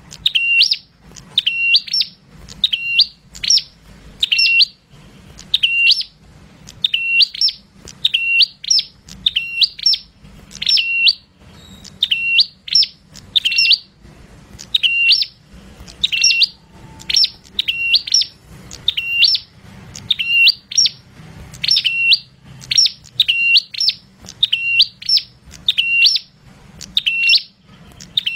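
Caged prenjak calling over and over: a loud, sharp, high chirp repeated at an even pace, about every three-quarters of a second, without a break.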